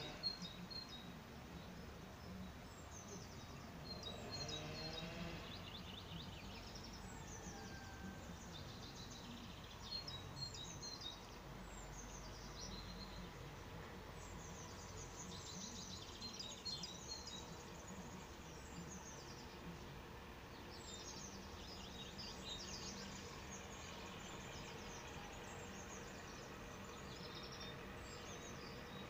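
Songbirds chirping and singing in short, repeated high phrases, scattered throughout, over a steady low outdoor background noise.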